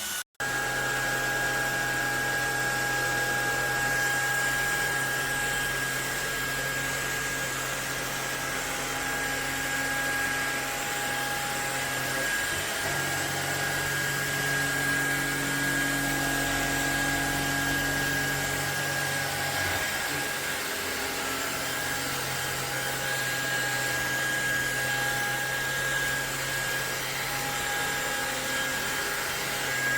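MONSGA cordless stick vacuum with a brushless motor running steadily: a rush of air with a steady high whine and a low hum that shifts partway through. There is a very brief dropout just after the start.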